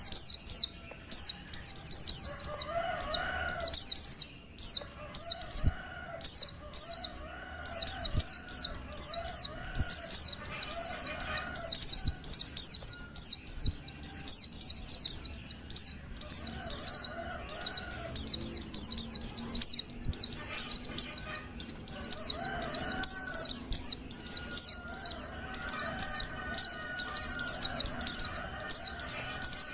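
Female white-eye (pleci) calling: rapid runs of high, thin chirps in quick bursts with short gaps between them, a call used to set a male singing. Fainter, lower bird calls sound beneath it.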